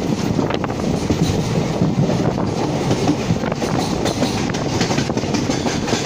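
Konkan Railway train running along the track, heard from on board: a steady rumble of wheels on rails with a few faint clicks.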